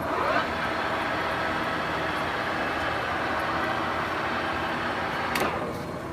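Large Summit engine lathe's spindle drive engaged with a clunk, speeding up over the first half second and running steadily for about five seconds, then a sharp clunk and it winds down.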